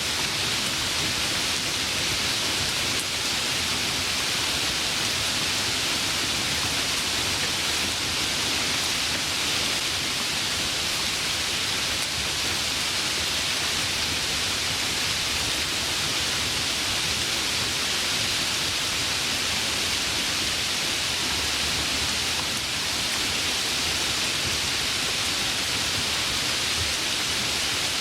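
Steady rainfall with an even hiss, brightest in the upper range, with no drops or thunder standing out.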